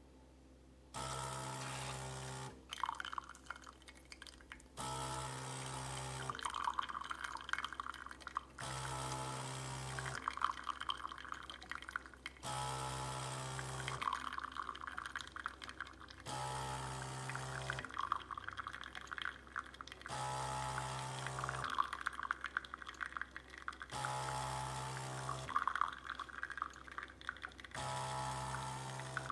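De'Longhi Dinamica espresso machine's pump humming in bursts of about two seconds, each followed by about two seconds of liquid sputtering and splashing out of the spout. The on-off cycle repeats about every four seconds.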